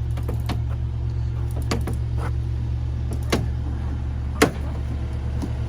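An engine runs steadily at a low pitch, with scattered sharp knocks and clunks of demolition debris being handled. The loudest knock comes a little over four seconds in.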